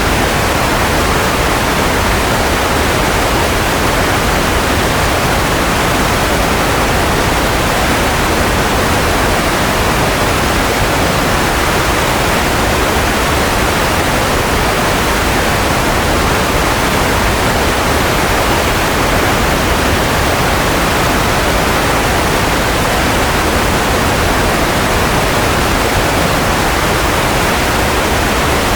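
Continuous white noise: an even, steady hiss spread across the whole range from low rumble to high hiss, with no tones, rhythm or changes.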